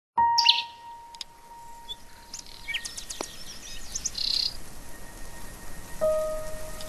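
Small birds chirping, with short high calls and trills scattered throughout. Long steady tones are held underneath: one near the start, and a lower one from about 6 seconds in.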